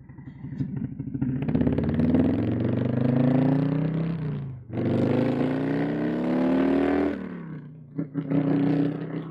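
Harley-Davidson bagger's V-twin engine accelerating, its pitch rising, dipping briefly about halfway through as it shifts up, rising again, then dropping back to a steady idle with a short blip of throttle near the end.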